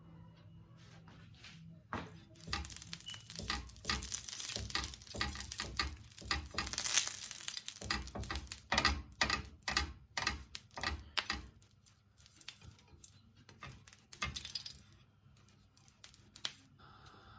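Kitchen handling noises during pancake preparation: a quick run of rustling, scraping and knocking strokes, loudest about seven seconds in, thinning out and stopping near the end.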